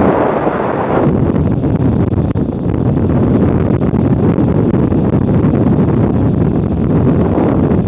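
Loud, steady wind buffeting an action camera's microphone on a moving motorcycle, swelling about a second in and again near the end.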